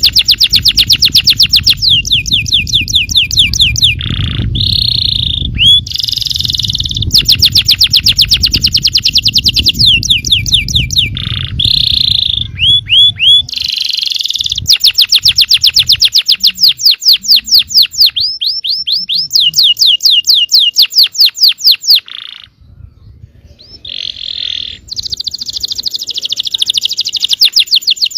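Yellow domestic canary singing long, fast trills of rapidly repeated high notes, broken by short harsh buzzy notes, with a brief pause about 22 seconds in.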